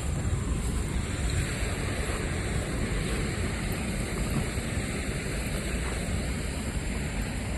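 Steady outdoor rumble and hiss with no distinct events, heaviest in the low end, like wind on the microphone.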